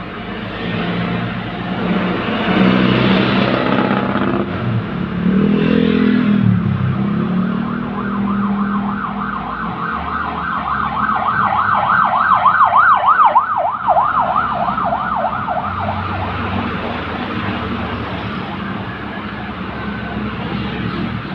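Honda City's four-cylinder engine held at a steady raised idle of about 2,000 rpm in Park, run up to heat the engine so the radiator fan switches to high speed. A siren warbles rapidly up and down over the engine from about 8 to 16 seconds in, loudest near 13 seconds.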